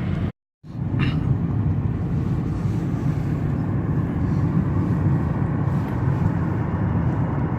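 Steady low rumble of a car's road and engine noise, heard inside the moving car. The sound cuts out completely for a moment just after the start, then carries on unchanged.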